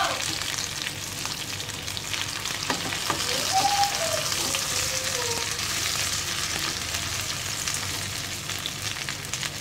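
Breaded chicken-and-potato cutlets shallow-frying in oil: a steady sizzle with fine crackling. A slotted plastic spatula turns them, giving a couple of light taps against the pan about three seconds in.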